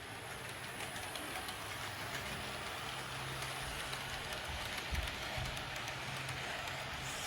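HO-scale model trains running on their track: a steady electric motor hum with the rush of wheels on the rails, and a couple of low knocks about five seconds in.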